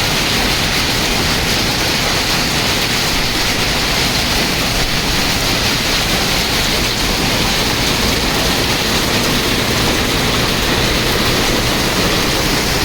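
Heavy rain pouring down, a loud, steady, dense hiss with no let-up.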